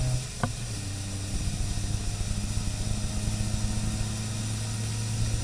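Car engine running steadily under way. Its note dips briefly just after the start, and there is a single click about half a second in.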